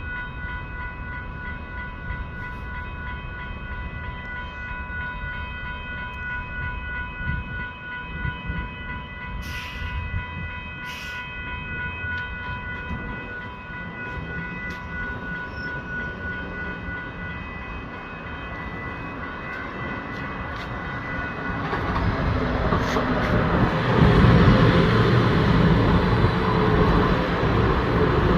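Light-rail train arriving at a station: a steady high whine holds for the first twenty seconds or so, then the train's rumble and wheel noise grow louder as it pulls in. A motor whine falls in pitch near the end as it slows.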